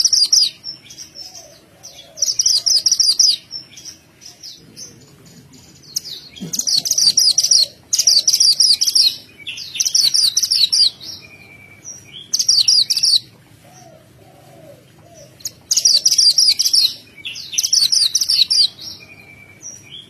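A mantenan gunung songbird singing gacor: loud, rapid phrases of high chirping notes about a second long, repeated with short pauses, and a few brief thin whistles between them. This is the kind of bird song used as a lure recording to coax quiet cage birds into singing.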